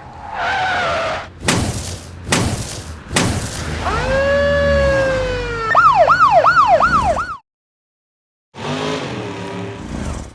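Cartoon emergency-vehicle siren: one long wail that rises and slowly falls, then switches to a fast up-and-down yelp of about three cycles a second that cuts off suddenly. Whooshing bursts come before it, and another short cartoon sound effect follows after a second's pause.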